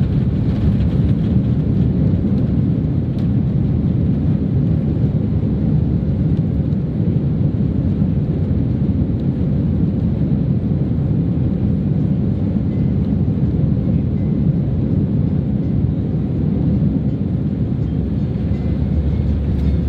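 Steady low rumble of a Boeing 767-300 heard inside the economy cabin: engine and airframe noise around landing or taxi.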